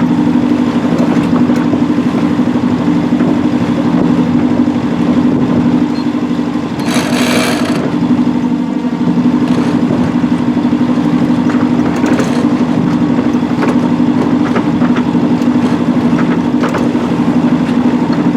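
Sailboat's auxiliary engine running steadily at constant speed. A brief burst of rushing noise comes about seven seconds in.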